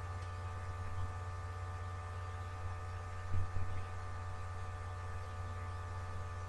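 Steady electrical mains hum with a whine of several steady higher tones, and one brief soft knock a little past halfway.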